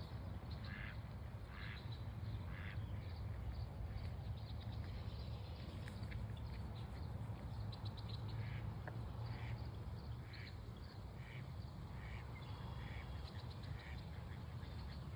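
A bird calling with short, repeated calls about once a second: three near the start, then a longer run in the second half. Under the calls there is a steady low rumble.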